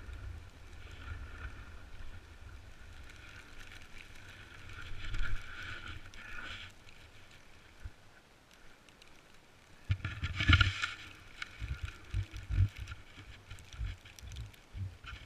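Snowboard sliding and scraping over snow, with wind buffeting the microphone. About ten seconds in comes a louder, harsher scrape, then irregular low thumps of wind on the microphone.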